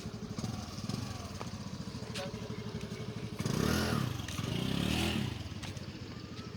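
Small vehicle engine running steadily, then revving louder for about two seconds a little past the middle before settling back.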